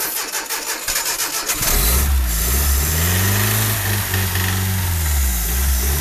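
1985 Nissan 720 pickup engine on its first start-up: the starter cranks with a rapid, regular beat for about a second and a half, then the engine catches and runs, its speed rising and dipping unevenly as it settles.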